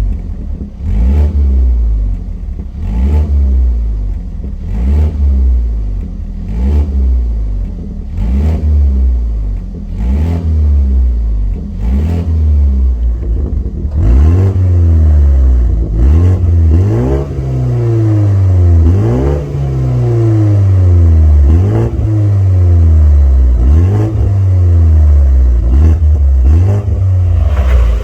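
BMW 530i's turbocharged four-cylinder revved repeatedly through a custom valved exhaust: short throttle blips about once a second, then from about halfway longer revs rising and falling about every two seconds.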